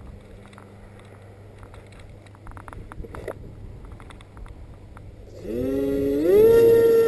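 Footsteps and handling rustle in the grass, then the Hobbyking Skipper's brushless electric motor and propeller spool up about five seconds in. The pitch rises in two steps before settling into a steady high whine at throttle.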